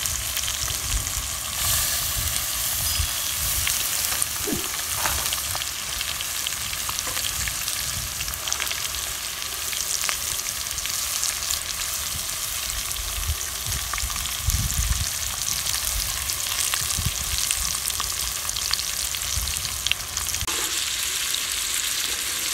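Saltfish with onion, scallion, tomato and hot pepper frying in a cast-iron pot over a wood fire: a steady sizzling hiss with scattered small crackles.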